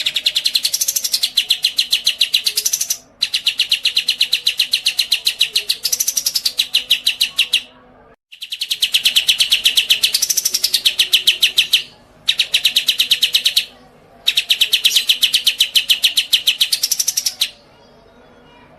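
A songbird singing long, very rapid trills of repeated notes in five bursts of about one and a half to four and a half seconds each, with brief pauses between them and occasional rising sweeps in pitch.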